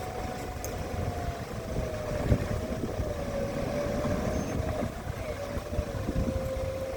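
Toyota Fortuner's engine running hard under load, with a steady whine that slowly sinks in pitch over a continuous low rumble.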